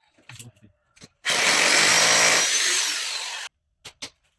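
A power drill runs for about two seconds and then cuts off suddenly, likely drilling during the heating-pipe installation. A few light knocks come before it and some sharp clicks after.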